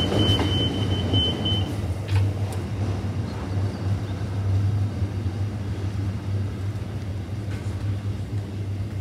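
Container freight train rumbling past with a steady low drone, slowly fading as it moves away.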